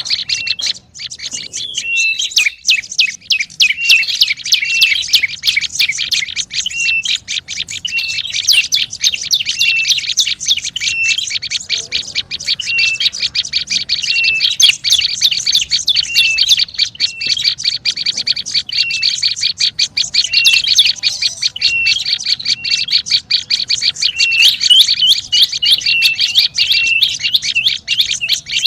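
Prenjak lumut birds in an agitated, nonstop rapid chatter, with short falling whistled notes repeating about once a second over it. This is the excited calling used as a lure recording to draw in the species.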